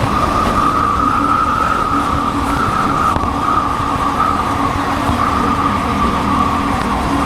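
Motorcycle engine running steadily while riding, with a constant high drone over a lower hum and heavy wind rush on the helmet-mounted microphone.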